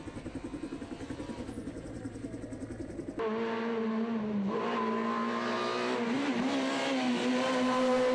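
Rally car engine heard from inside the car. For the first three seconds it runs at lower revs with a rapid pulsing. After an abrupt cut at about three seconds, an engine held at high revs at a steady pitch that wavers slightly and rises in loudness.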